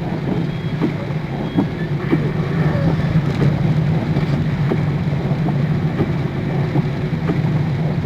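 Heavy rain hitting a moving car, heard from inside the cabin: an even hiss of rain with many scattered sharp drop taps over a steady low hum of the car running.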